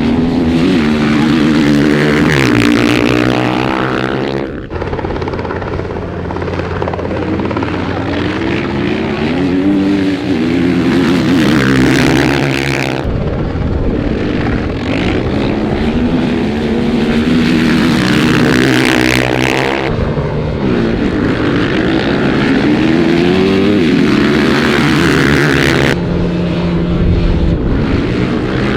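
Dirt bike engine revving up and down as it rides, with wind rush over it. The sound changes abruptly a few times.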